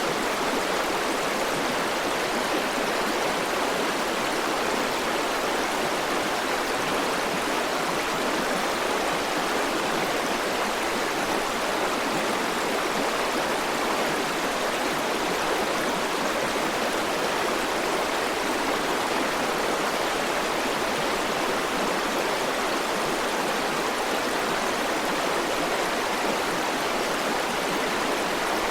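River water flowing over rocks: a steady, unbroken rush with no distinct splashes.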